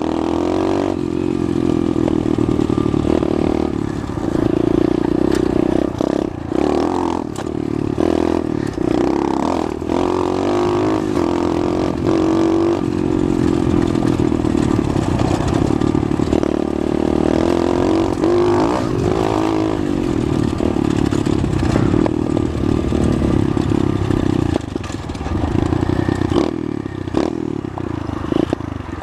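Pit bike engine running while riding, its pitch rising and falling with the throttle, with frequent rattles and knocks throughout.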